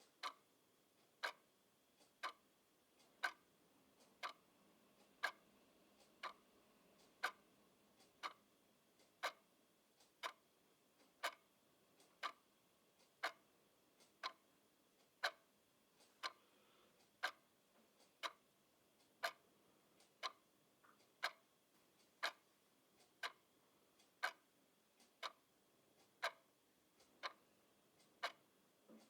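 Clock ticking steadily, about once a second, with every other stroke louder in a tick-tock pattern.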